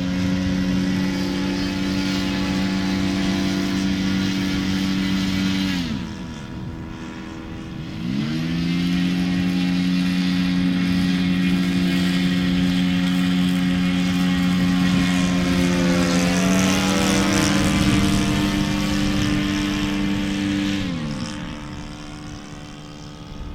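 14cc engine of a radio-controlled model plane running at a steady high pitch. It is throttled back about six seconds in, opened up again two seconds later, and throttled down again near the end. The flyers find it underpowered and popping, and say it needs tuning.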